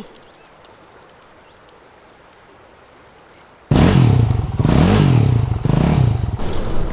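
Faint background for about three and a half seconds, then a dirt bike engine comes in loud, revving up and down in several surges while the rear wheel is stuck in the mud.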